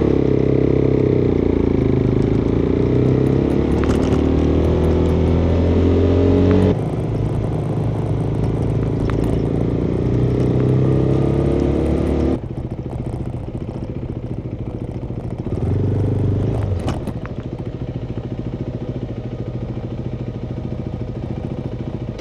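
Motorcycle engine pulling away and accelerating, its pitch rising, with a drop at each gear change about 7 and 12 seconds in. After that it runs steadily, apart from a short rise in revs around 16 seconds. It is picked up by a microphone inside the tank bag.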